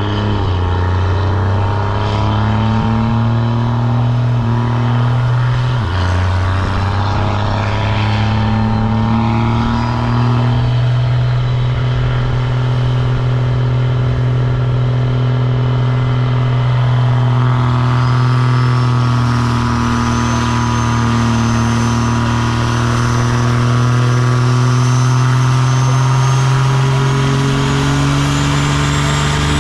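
A truck engine running loud and steady under load, its pitch stepping to new levels a couple of times and then climbing near the end as it revs up.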